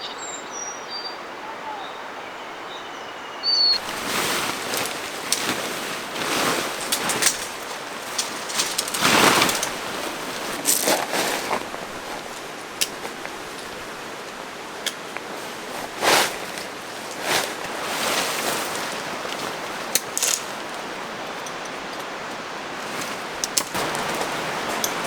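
Steady rush of a mountain stream, with birds chirping over it for the first few seconds. After that come irregular short knocks and rustles.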